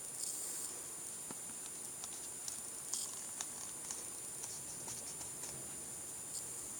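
Light, irregularly spaced button clicks, about a dozen, the loudest about three seconds in, as calculator keys are pressed. A faint, steady high-pitched whine sits underneath.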